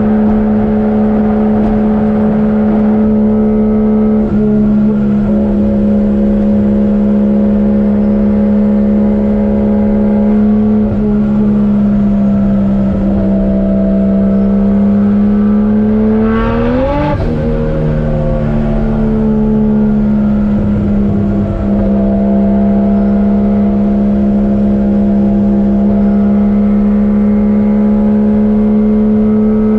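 Turbocharged 1JZ-GTE VVTi inline-six engine droning at a near-steady speed while the car is driven. Its pitch sweeps up briefly about 17 seconds in, then falls back to the same steady drone.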